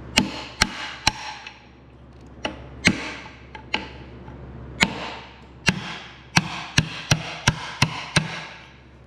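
Hammer striking a brass punch set against the lip of a Kohler K241 engine's stuck oil pan: about fifteen sharp, ringing blows, coming faster in the second half, to crack the glued-on pan loose.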